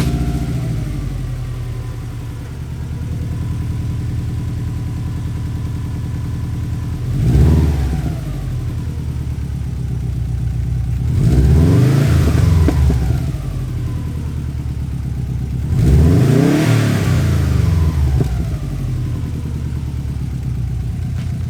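2002 Subaru WRX's turbocharged flat-four idling through a Borla Hush catback exhaust, blipped three times: a short rev about seven seconds in, then two longer revs that climb and fall back to idle, about eleven and sixteen seconds in.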